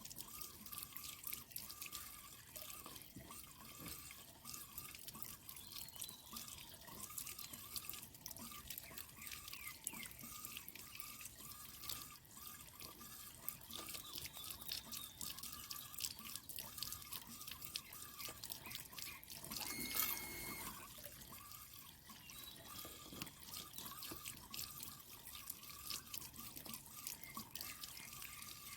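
Water dripping and trickling steadily, with many small drop clicks and a wavering gurgle. About twenty seconds in there is a short, louder high-pitched sound.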